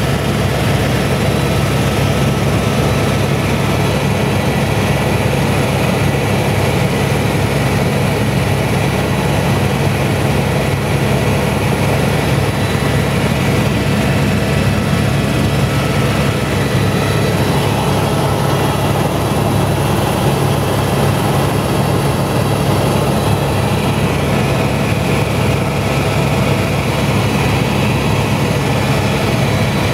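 Helicopter in flight: a loud, steady drone of rotor and engine that holds unchanged throughout.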